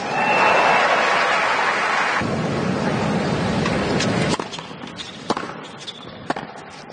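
Tennis stadium crowd cheering and applauding loudly after a point, cutting off about four seconds in, followed by a few sharp isolated knocks.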